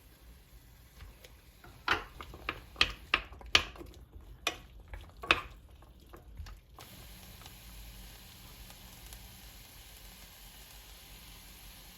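Home cooking in a pan: a run of sharp clicks and knocks from a utensil for a few seconds, then a steady frying sizzle.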